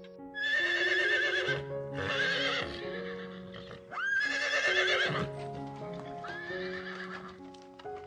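Horses neighing: four whinnies with a quavering pitch, the third opening with a sharp upward sweep, over background music.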